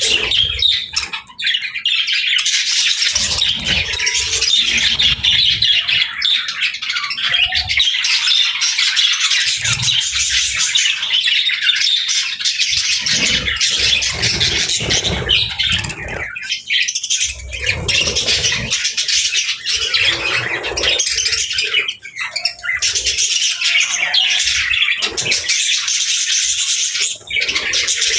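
Budgerigars chattering and chirping continuously, a dense high-pitched warble.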